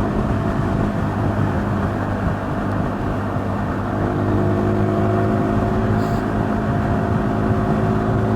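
KTM 390 Duke's single-cylinder engine running at a steady cruise, a little louder and busier from about halfway through.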